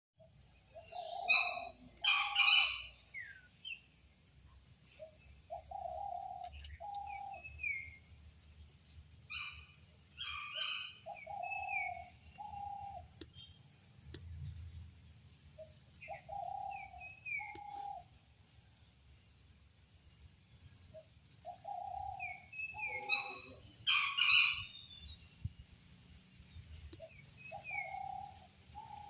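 Birdsong: a bird repeats a low two-note call every five or six seconds, mixed with short, high, falling chirps and a few louder calls near the start and about three-quarters of the way through. A steady, pulsing high insect trill runs underneath.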